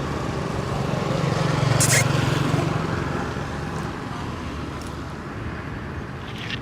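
A motor vehicle passes on the road: its engine hum grows, is loudest about two seconds in, then fades away. A short high-pitched sound comes right at its loudest point.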